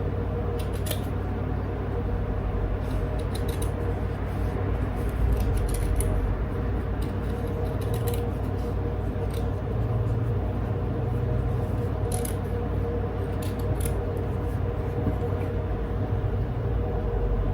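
Scissors snipping black felt in short, scattered cuts, over a steady background hum.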